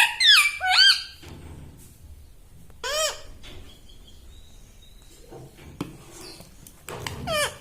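Pet ring-necked parakeet giving sharp, high calls: a quick run of several in the first second, a single call about three seconds in, and another run near the end.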